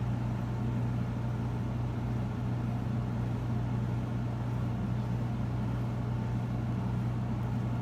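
A steady low hum with a faint even background hiss, unchanging throughout.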